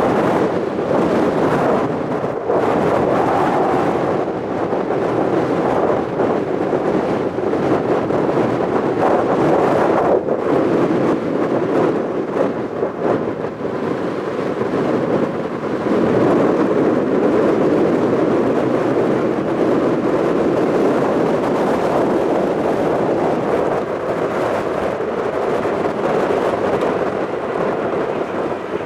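Airbus A320neo jet airliner landing: a loud, steady rumble of engine and rushing air with no clear tones, swelling slightly a couple of times.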